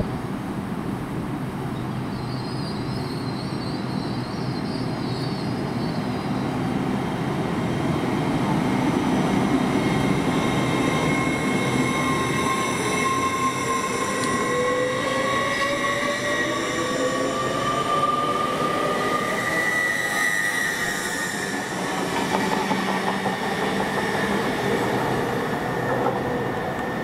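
A train running through the station: a steady rumble of wheels on the rail, with high whining tones that rise in pitch through the middle stretch.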